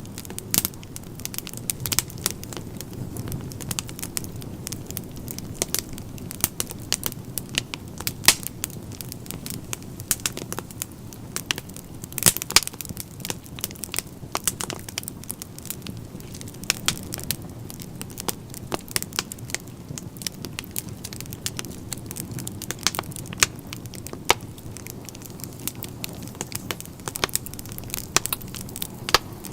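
Wood fire burning in a fireplace: a steady low rush of flames with irregular sharp crackles and pops, a few of them louder.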